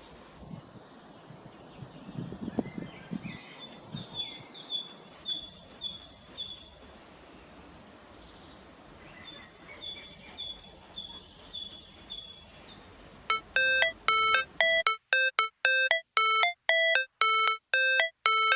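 A small bird repeating short, evenly spaced two-note chirps in two runs of a few seconds each, over a low outdoor hiss. About thirteen seconds in, a loud, regular electronic tone pattern starts, the opening of a music track.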